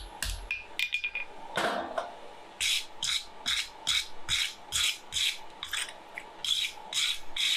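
The last couple of hammer blows on hot steel, then a hand tool scraped back and forth across the steel in quick, even strokes, about two and a half a second.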